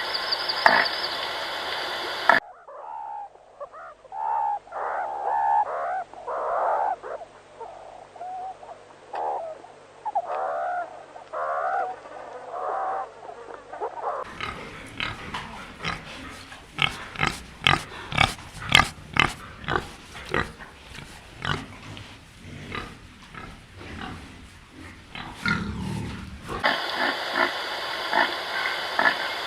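Pigs squealing and grunting across several spliced clips: first a run of short squeals that bend up and down in pitch, then, from about halfway, a long stretch of quick, sharp grunts and snorts.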